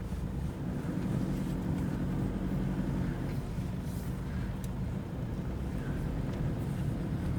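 Toyota Fortuner's 2KD-FTV 2.5-litre four-cylinder turbodiesel running steadily while driving, with road noise, heard from inside the cabin as a low rumble.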